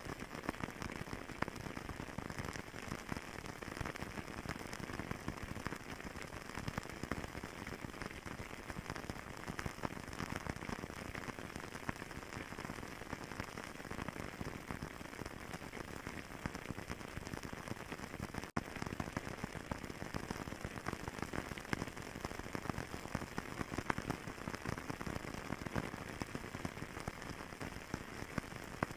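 Wood fire crackling in a fireplace: a dense, steady stream of small snaps and pops, broken by a momentary gap about two-thirds of the way through.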